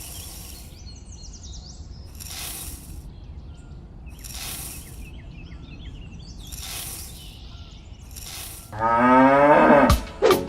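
A cow mooing once near the end, a long loud call that falls in pitch. Before it, a soft hiss swells about every two seconds, with faint bird chirps.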